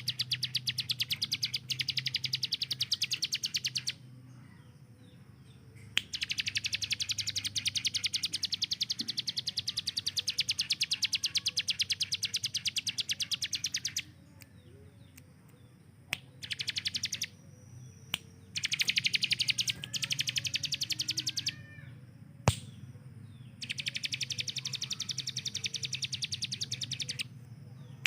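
Ciblek gunung, a prinia, singing long runs of very fast, evenly repeated high notes, like machine-gun fire. The runs last several seconds each, with short pauses between them. A steady low hum runs underneath, and there is one sharp click about two thirds of the way through.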